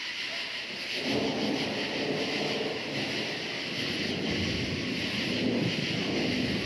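Thunder rumbling: a low roll begins about a second in and carries on to the end. Under it is a steady chorus of crickets.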